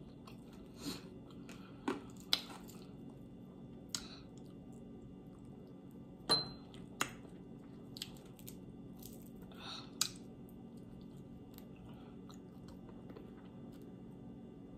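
Close-up mouth sounds of eating a sauce-glazed chicken wing: quiet chewing with scattered short wet clicks and smacks, the loudest about six seconds in, thinning out over the last few seconds.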